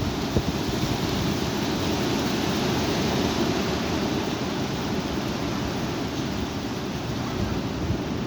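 High wind blowing and buffeting the microphone: a steady, loud rushing rumble with small swells of gusts.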